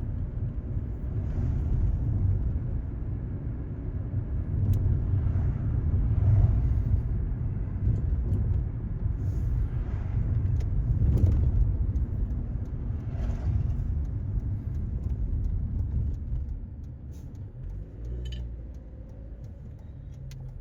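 Car driving along a highway: a steady low rumble of road and engine noise that swells and eases, with a few faint clicks and rattles, growing quieter near the end.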